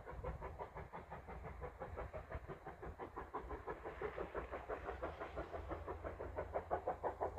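Steam train hauled by GWR 4110, a 5101-class Large Prairie 2-6-2 tank engine, running past with a quick, even rhythmic beat of about five or six a second.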